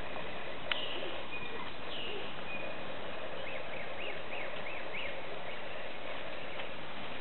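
Small birds chirping, with a run of short repeated high notes at about two a second in the middle, over a steady hiss of outdoor background noise. One sharp click under a second in.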